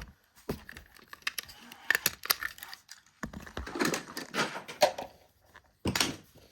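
Rustling and crinkling of packaging as small objects are handled, with scattered sharp clicks and knocks, busiest in the middle.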